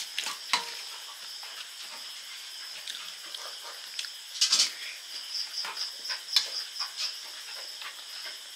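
Close mouth sounds of eating puffed rice, with a loud crunchy burst of chewing about four and a half seconds in, and a few clicks of a steel spoon on a steel plate. A steady pulsing chirp of crickets runs underneath.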